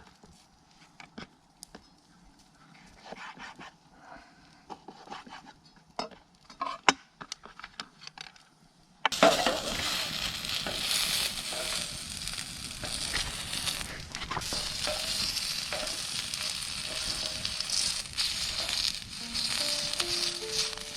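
Scattered clicks and knocks, then about nine seconds in a loud, steady sizzling starts suddenly: food frying on a hot grill plate over a campfire. A few notes of music come in near the end.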